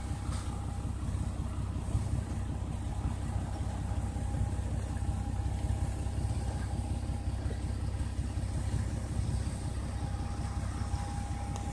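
Off-road vehicle engine running steadily at low speed: a low rumble with a faint steady whine above it.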